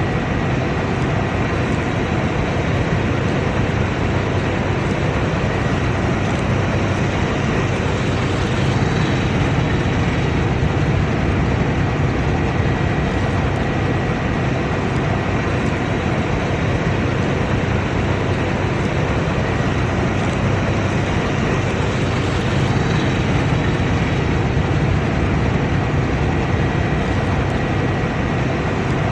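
Combine harvester running steadily: a constant machinery drone with a thin, steady high whine over it.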